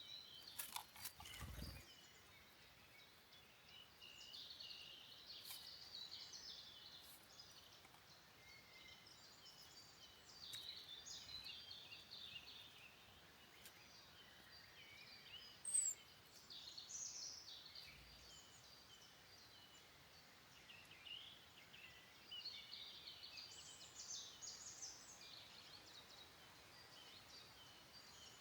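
Faint woodland birdsong: several small birds singing and calling in short phrases over a quiet forest background. A low thump with a few clicks comes about a second and a half in, and a single sharp click about halfway through.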